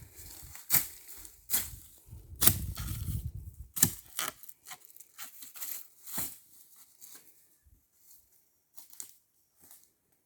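Dry leaves and twigs crackling and snapping in an irregular run of sharp rustles, dense and louder over the first four seconds with a low rumble underneath for about a second and a half, then thinning to scattered faint snaps.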